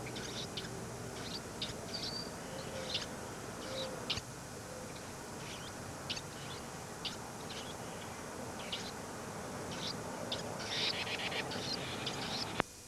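Small songbirds chirping: short, high chirps scattered every second or so, with a quick run of them about eleven seconds in, over the steady hiss of a VHS recording. A sharp click comes near the end.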